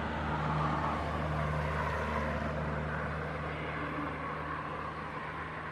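Steady engine noise: a low, even hum under a wash of rushing noise, easing slightly in level toward the end.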